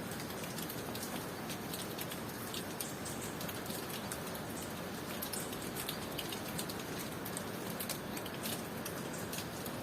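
Steady rain falling, with many sharp ticks of single drops landing.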